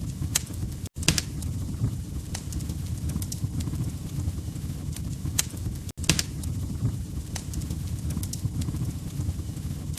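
Wood fire crackling: a steady low rumble of flames with scattered sharp pops and snaps. The sound cuts out for an instant about a second in and again about six seconds in.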